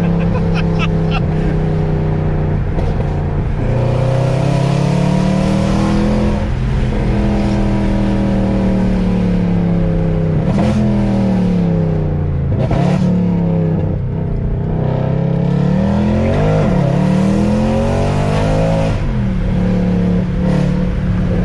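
Straight-piped Mercedes-AMG Black Series engine heard from inside the cabin, pulling hard through several accelerations and lifts, its pitch climbing and dropping again and again. A couple of sharp cracks come at the gear changes, about halfway through.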